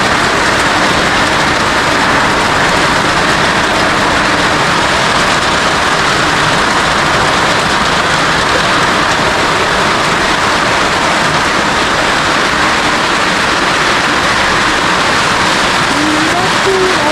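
Heavy rain falling on a roof: a steady, loud rush that does not let up.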